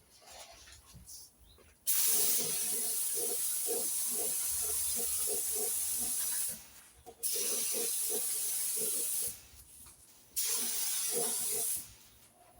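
Compressed-air spray gun spraying paint in three bursts, a long one of about four and a half seconds, then two shorter ones, each a steady hiss that starts and stops sharply as the trigger is pulled and released.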